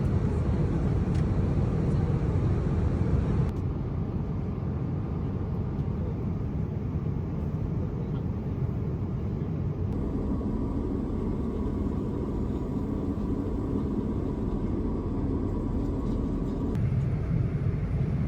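Steady low rumble of a vehicle travelling, heard from inside it. It is made of several clips cut together, and the sound changes abruptly at each cut.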